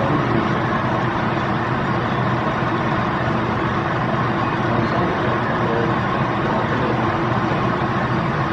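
Steady vehicle rumble: a constant low engine drone under a dense noise, without a break or change.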